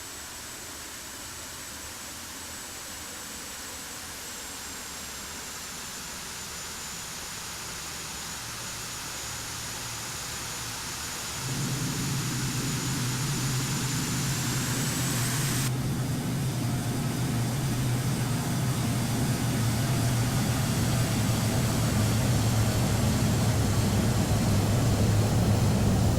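Boeing 747 jetliner on landing approach, its jet engines growing steadily louder as it nears, with a thin high whine that dips and then rises again. A deeper rumble comes in abruptly about halfway through and keeps building.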